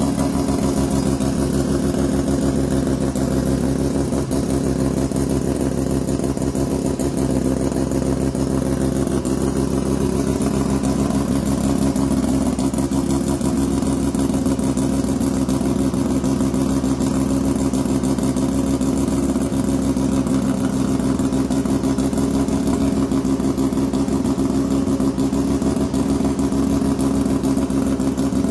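1981 Mazda RX-7 (FB) 12A two-rotor Wankel engine idling steadily through a large stainless-steel exhaust.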